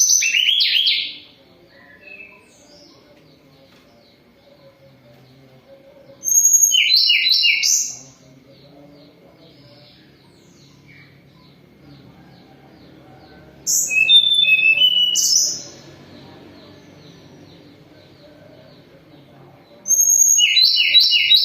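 Tledekan gunung (Sunda robin) singing loud phrases of rapid high notes, each about two seconds long, about every six to seven seconds, with faint softer notes in between. The bird is in moult and still singing strongly.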